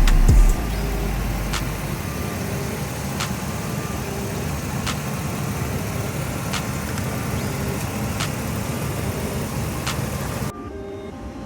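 A 2013 Chevy 3500's 6.0 liter V8 Vortec gas engine idling steadily, with light ticks about every second and a half. The sound drops suddenly near the end.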